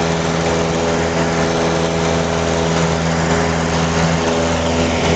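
Cessna 172's single piston engine and propeller running steadily at takeoff power, a constant droning note heard inside the cabin.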